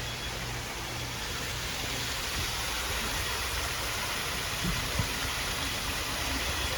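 Hampton Bay Gazebo II ceiling fan running with a bad capacitor: a low motor hum under a steady rush of air. Two soft low knocks come about two-thirds of the way through.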